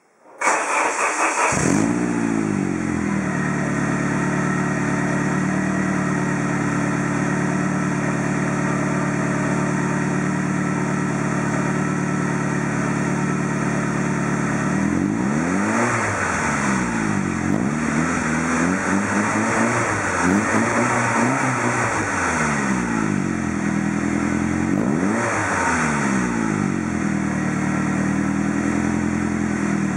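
Saab 900NG Aero's turbocharged four-cylinder engine, breathing through an aftermarket Sebring exhaust, starting up and flaring before settling to a steady idle. In the second half it is blipped several times, rising and falling in pitch, then returns to idle.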